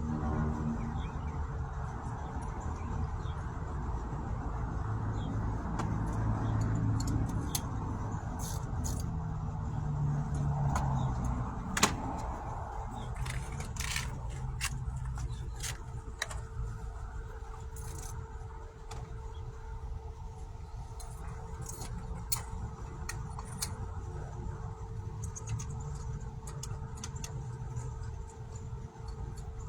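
A car engine running steadily, with scattered light metallic clicks and jingles and one sharp click about twelve seconds in.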